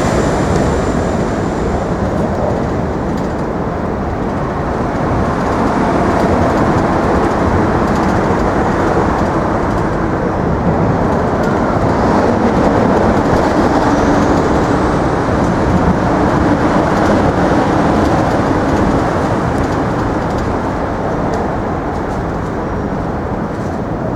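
Steady, loud roar of heavy road traffic, with faint engine tones drifting in and out.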